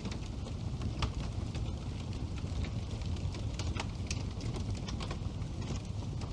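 Wood fire burning steadily in a fireplace, a low rushing bed with scattered sharp crackles and pops.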